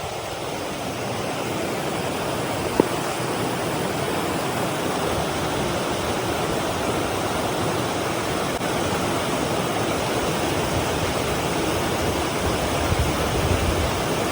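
Running water of a stream, an even rushing that holds steady throughout, with one sharp click about three seconds in.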